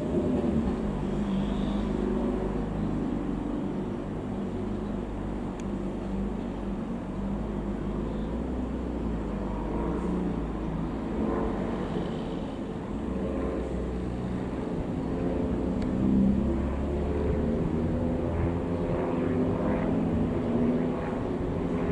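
Piper PA-28-181 Archer's four-cylinder piston engine and propeller droning steadily in flight, its pitch wavering slightly.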